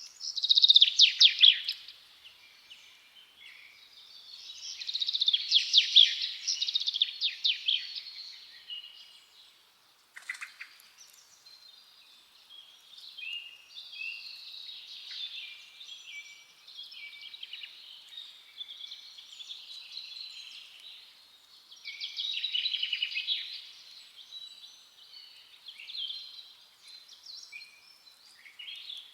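Forest birdsong: several birds chirping and trilling at once, with a few louder runs of rapid high notes standing out from the chorus.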